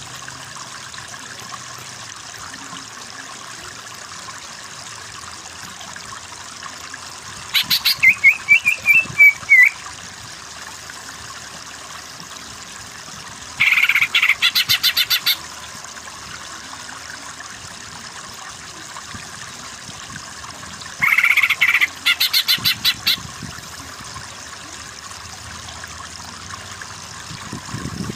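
Short bursts of rapid, chattering animal calls repeat four times, about every seven seconds, over a steady trickle of running water. The first burst, about eight seconds in, ends in a quick warbling trill that falls in pitch.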